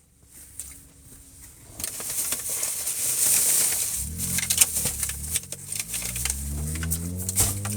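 Crinkling, clicking handling noise over a hiss, then from about halfway a vehicle engine rising in pitch.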